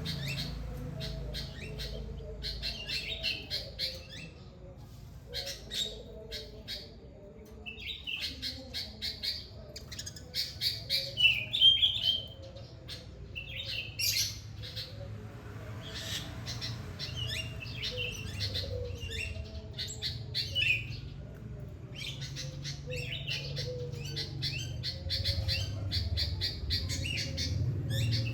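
Songbirds chirping and chattering in quick bursts of rapid notes, with short pauses between bursts, over a low steady rumble.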